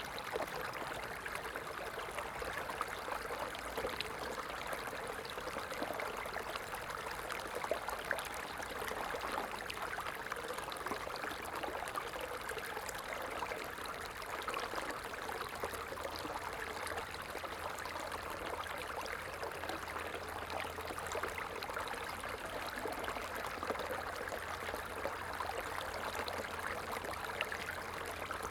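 A stream of water running and burbling steadily over stones, an even rushing wash with small splashes throughout.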